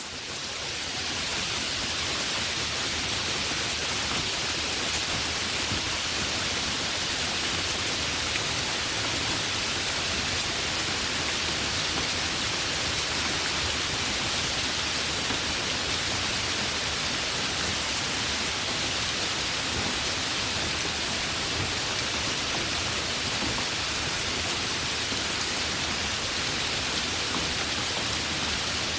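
Heavy rain falling steadily, an even hiss that swells up over the first second and then holds.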